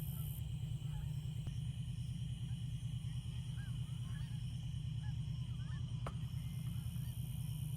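Outdoor nature ambience: a steady high insect drone with an on-off higher buzz, small bird chirps scattered throughout, and a low steady rumble underneath. Two faint clicks, about a second and a half in and about six seconds in.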